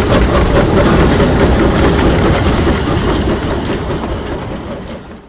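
A train running along the rails, its wheels clattering steadily over the track; it fades away near the end.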